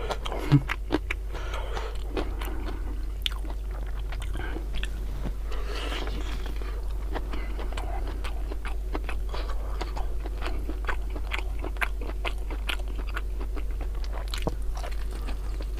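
Close-up chewing of pressure-cooked beef tongue in rica-rica chili sauce: many small mouth clicks, over a steady low hum. The meat is still tough to chew.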